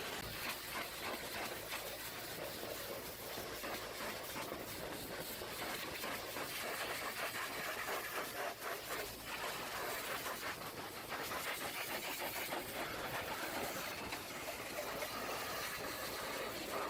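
Pressure-washer water jet spraying against a dump truck, a steady hiss of water with small surges as the spray moves.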